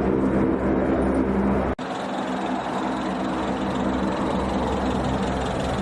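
Aircraft engines running steadily with a droning pitched hum. Less than two seconds in, the sound breaks off for an instant and resumes with less low rumble.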